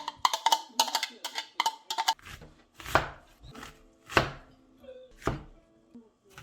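Background music with a percussive beat ends about two seconds in. Then a knife chops on a cutting board three times, single strokes about a second apart.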